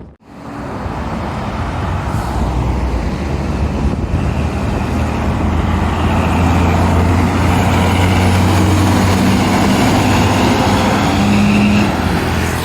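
Heavy lorry's engine running with a steady low drone, growing louder over the first few seconds and then holding steady as it comes close.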